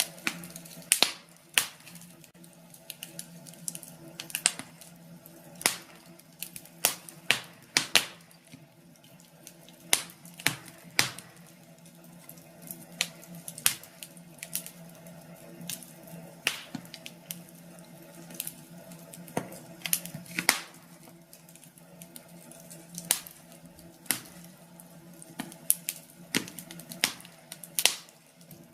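Wood fire in a fireplace crackling, with sharp irregular pops and snaps over a faint steady low hum.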